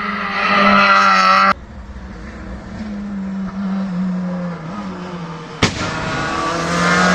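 Hillclimb race car engines under hard acceleration, their pitch rising. The sound cuts abruptly about one and a half seconds in to a quieter car whose engine note rises and falls, then cuts again with a click near the end to another loud car.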